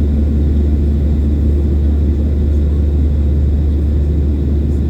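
Boeing 737 jet engines running, a loud, steady low rumble that does not change.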